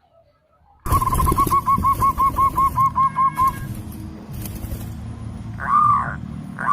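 Zebra dove (perkutut) singing: a quick run of about a dozen short, even coos at roughly four to five a second, then after a pause louder, drawn-out arched coos near the end.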